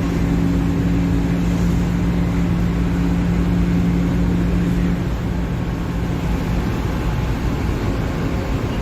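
Mercedes-Benz OF-1721 Bluetec 5 bus's diesel engine running, with a steady hum that drops away about five seconds in, leaving a rougher engine note.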